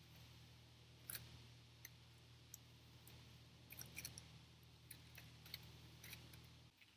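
Faint scattered clicks over a low steady hum; the hum cuts off suddenly near the end.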